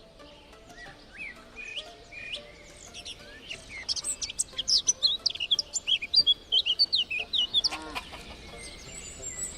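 Birds chirping and twittering in quick, high calls, densest and loudest through the middle few seconds, with one lower call dropping in pitch near the end.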